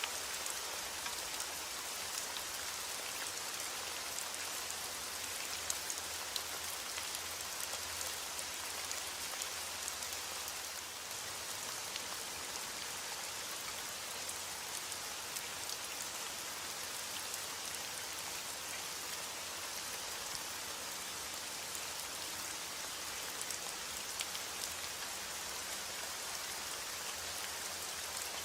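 Steady rain falling, with many fine drop patters on a surface and no thunder.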